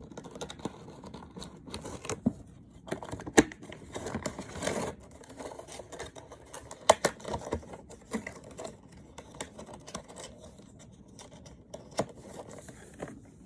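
Objects being handled and unpacked: rustling and scratching of packaging with scattered sharp clicks and taps, the loudest about three and a half seconds in and again about seven seconds in.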